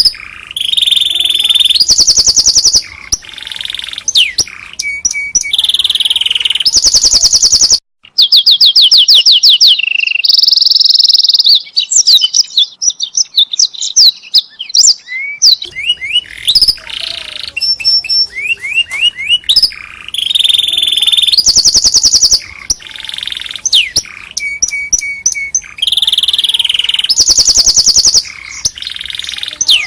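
Domestic canary singing a long, fast song of high trills and rolling, rapidly repeated notes, which breaks off for a moment about eight seconds in.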